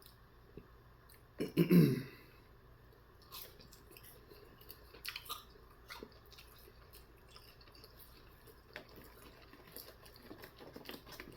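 A man chewing sauced chicken nuggets close to the microphone: soft, wet mouth clicks and smacks scattered through, with one louder short mouth sound about a second and a half in.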